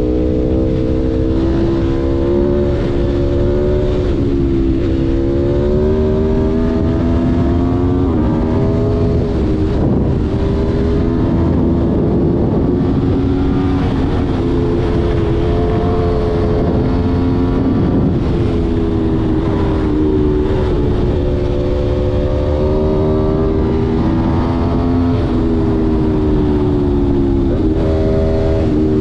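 Aprilia Tuono V4 1100's V4 engine running hard under way, its pitch climbing slowly through each gear and dropping at each upshift, about eight gear changes in all.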